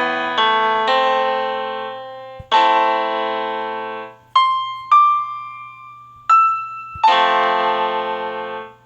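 Slow piano playing: sustained chords, then a few single high notes, then a final chord that rings and fades out. A faint steady hum lies underneath.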